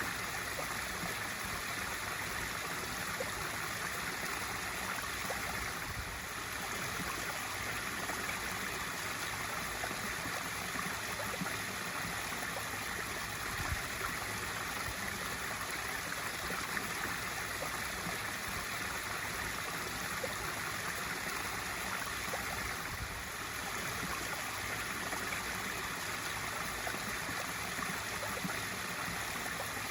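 Swimming-pool waterfall feature: water spilling steadily into the pool in an even, unbroken splashing rush.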